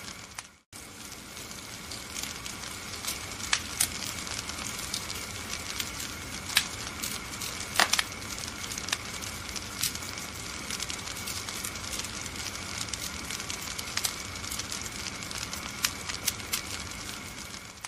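Wood fire crackling in a fireplace: a steady hiss with irregular sharp pops, a few of them louder near the middle. The sound cuts out briefly about half a second in.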